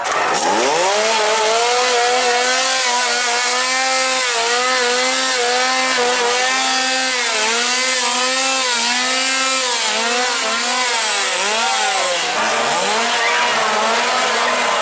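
Chainsaw engine revving up sharply, then held at high revs with repeated quick throttle dips and blips.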